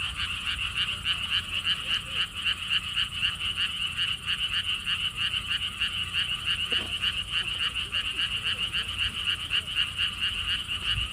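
A chorus of many frogs calling at once in a lotus pond, a dense, steady run of rapid pulsed calls. A low rumble of wind lies underneath.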